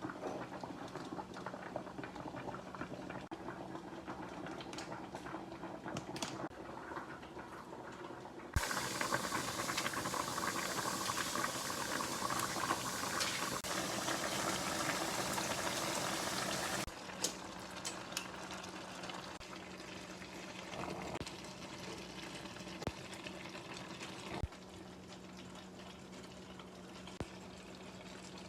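A pot of water bubbling on the stove for spaghetti, over a steady low hum. About a third of the way in, a louder steady rush starts suddenly and cuts off about eight seconds later.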